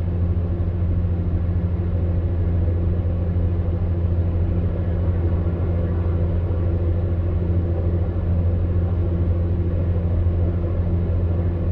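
Electric fan heater running steadily: a low, even hum with a hiss of moving air above it.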